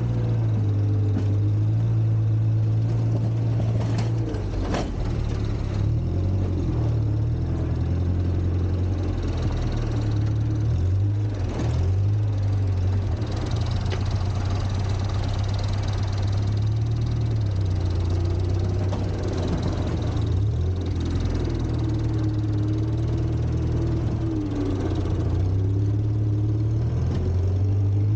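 Volvo four-cylinder gasoline engine of a 1960s Kalmar baggage tractor running steadily, its speed rising and falling several times, with two sharp clicks about four seconds in.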